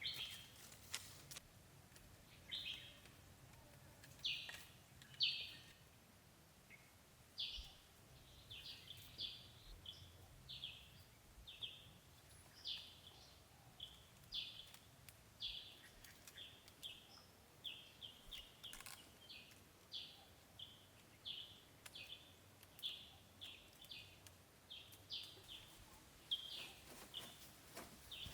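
Faint, repeated short bird chirps, one or two a second, with a few faint clicks among them.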